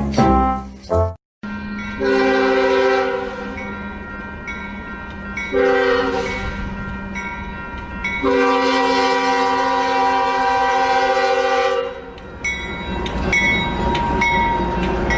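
A train horn sounds three blasts over the rumble of a running train; the third blast is the longest. Music plays briefly before it.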